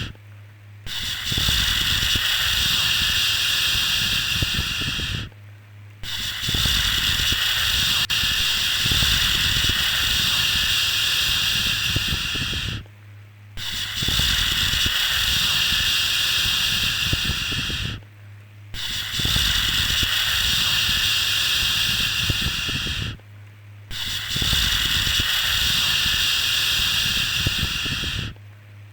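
Soothing 'shhh' shushing sound for lulling a baby to sleep. It comes as long hissing shushes of several seconds each, five in a row, each followed by a brief pause of under a second.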